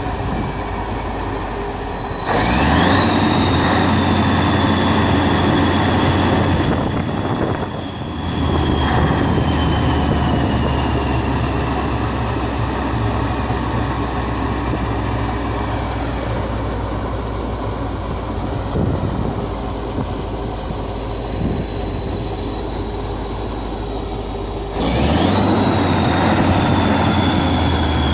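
Scania DS14 V8 turbo-diesel running steadily with a high turbo whine. About 2 s in and again near the end it suddenly runs louder, and the whine shoots up, then slowly falls in pitch.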